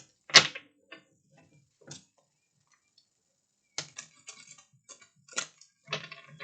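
A series of light clicks and taps. One sharp, louder click comes about half a second in, and a quick cluster of clicks follows in the second half.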